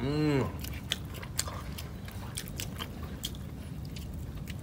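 A man chewing a mouthful of spiced goat meat, with small wet mouth clicks and lip smacks, after a short hummed "mmm" that rises and falls in pitch right at the start.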